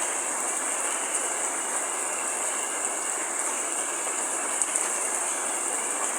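Heavy rain falling steadily, an even hiss with a couple of faint drop ticks near the end.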